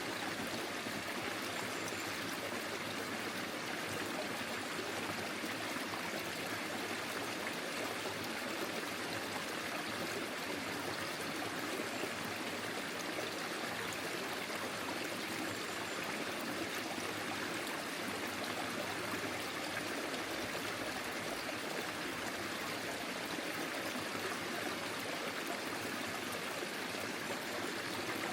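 Small forest stream flowing over stones: a steady, even babbling of running water.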